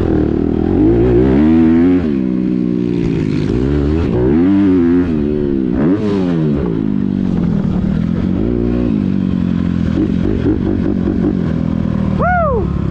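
Honda CRF250R's single-cylinder four-stroke engine, through a Yoshimura titanium exhaust, being ridden hard: the revs climb and drop again and again with throttle and gear changes, with a few quick throttle blips near the end.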